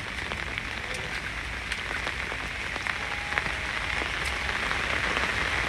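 Steady rain falling, with scattered sharp ticks of single drops; it grows slightly louder toward the end.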